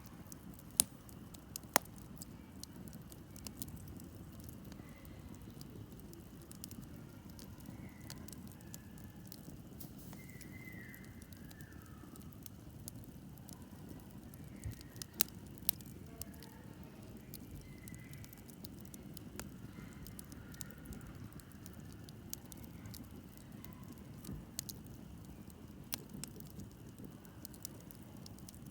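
Wood campfire burning, with a steady low rumble and irregular crackling. Sharp pops stand out twice about a second in and again around the middle.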